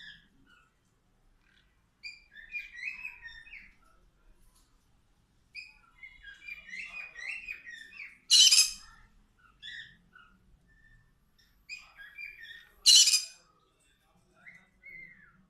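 Parrots chirping and chattering in short calls, with two loud harsh squawks, one just past halfway and one near the end.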